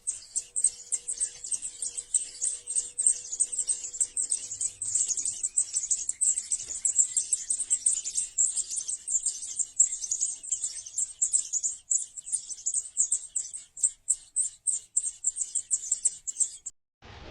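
Nestling birds begging for food with a dense stream of rapid, high-pitched chirps that cuts off suddenly near the end.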